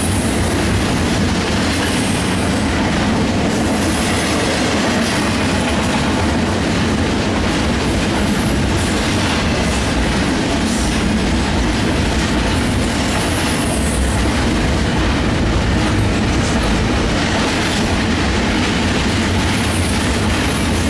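Double-stack container cars of a freight train rolling past: a steady, loud rumble and clatter of steel wheels on rail, with faint high wheel squeals now and then.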